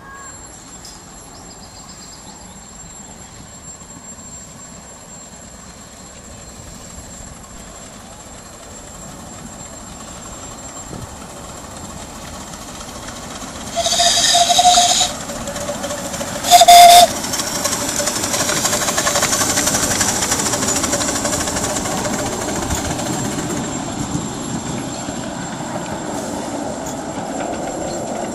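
A miniature railway train approaches and sounds its whistle twice, a blast of about a second followed by a short toot. It then runs close by with a rising and falling rumble of wheels on track.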